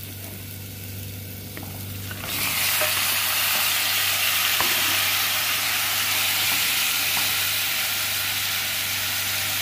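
Sautéed onion and garlic sizzling softly in hot oil in a pot; about two seconds in, raw chicken pieces are dropped in and the frying sizzle jumps sharply louder and keeps going steadily, with a wooden spoon stirring.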